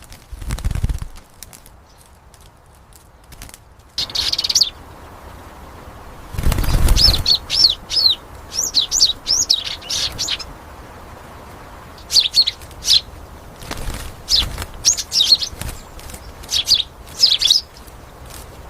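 A small bird chirping in quick clusters of high, sweeping calls, with short pauses between clusters. Two fluttering flurries of wingbeats, one near the start and a louder one about six and a half seconds in.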